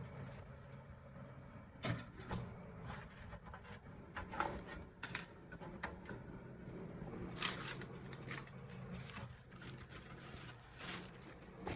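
Scattered light clicks and knocks of parts and tools being handled, over a low steady hum.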